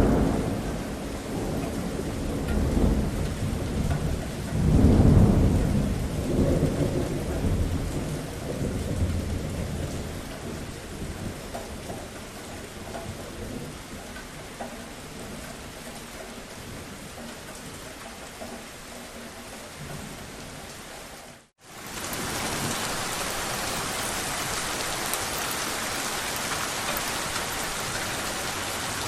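Steady rain with thunder rumbling low in the first ten seconds or so; the loudest roll comes about five seconds in. About 21 seconds in the sound cuts out for a split second, then the rain comes back brighter and hissier, with no thunder.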